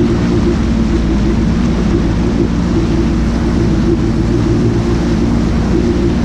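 Jet ski engine running steadily under way, a constant low drone with a rushing hiss over it.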